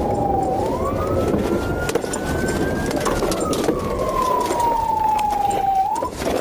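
Police car siren wailing, its pitch sliding slowly down and then quickly back up, about once every three seconds, over a steady low rumble.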